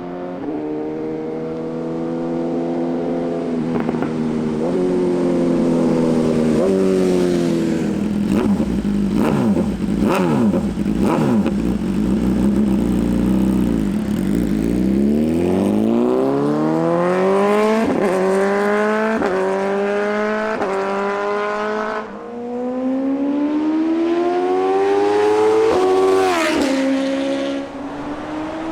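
BMW S1000RR's inline-four through an Arrow Competition EVO full exhaust, accelerating hard through the gears, the revs dropping sharply at each upshift. In the middle it slows, the revs falling, with several sharp cracks from the exhaust. Then it pulls away again through more upshifts.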